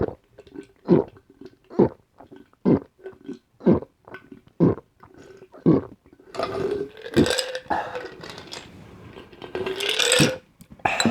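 A person gulping a carbonated grapefruit soft drink, one swallow about every second, then longer burps in the second half.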